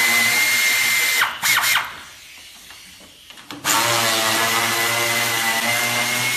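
Power tool, likely an air tool, spinning fasteners off the engine: a steady high whine that runs for about a second, a few short blips, a brief pause, then another long run from about the middle on.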